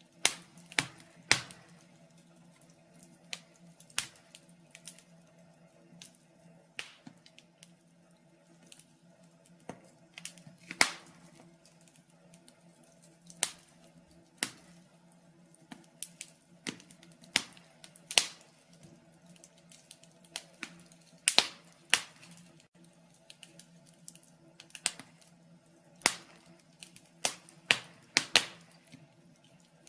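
Wood fire crackling in a fireplace: irregular sharp pops and snaps of burning logs at uneven intervals, some much louder than others, over a faint steady hum.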